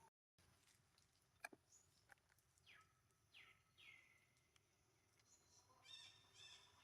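Faint high-pitched calls from a baby monkey, each sliding down in pitch and trailing off: three about three seconds in and a quicker cluster near the end. A single sharp click about a second and a half in.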